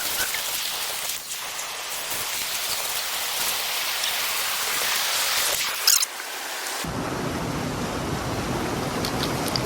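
Steady hiss of rushing water, like a creek or falls. About seven seconds in it cuts suddenly to a fuller, deeper rush.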